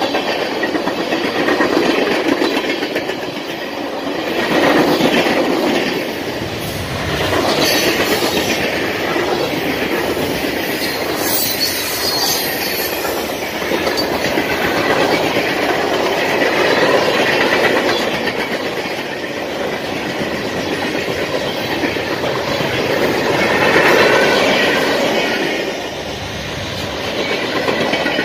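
Freight cars of a passing CSX mixed manifest train rolling by close to the track: a steady rumble of steel wheels with clickety-clack over the rail joints. A brief high wheel squeal comes about halfway through.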